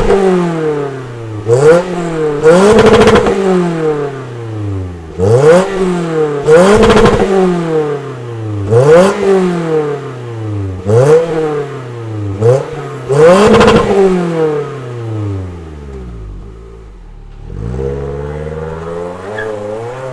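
Lexus ES250 engine heard through its tuned exhaust, revved sharply again and again, about every two seconds. Each rev climbs quickly and falls away. Near the end it settles back to a steady idle.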